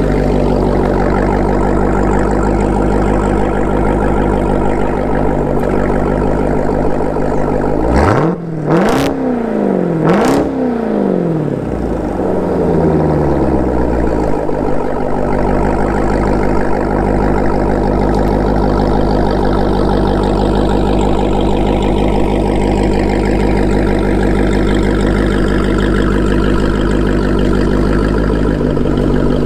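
Jeep Grand Cherokee Trackhawk's supercharged 6.2-litre V8 running steadily through a Corsa Extreme exhaust, loud throughout. About eight and ten seconds in it revs up sharply twice, with a few sharp cracks, then settles back to a steady drone.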